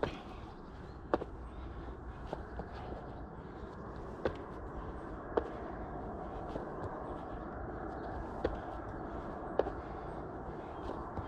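Short, sharp taps or thuds of a person's feet and hands landing during a bodyweight workout, one every second or two, over a steady background hum.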